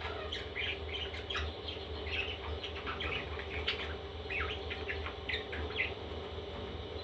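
Baby parrots chirping: many short, overlapping calls in quick succession that thin out near the end, over a steady low hum.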